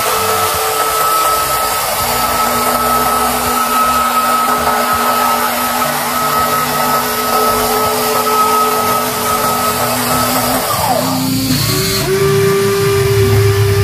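Small electric gear motors of remote-control toy construction vehicles whirring steadily with a high whine; a little before the end the whine slides down and the motors settle into a new, lower-pitched whir.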